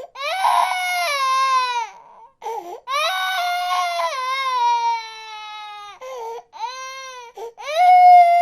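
Infant crying: a series of long, high-pitched wails, each sliding down in pitch as it ends, broken by short gasps for breath, with the loudest wail starting near the end.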